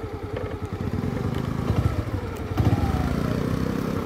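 Motorcycle engine running at low road speed, getting louder about two-thirds of the way through.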